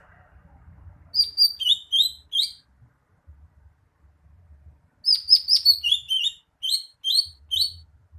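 Cucak hijau (green leafbird) singing two bursts of rapid, high, chirping notes. The second, longer burst starts about five seconds in.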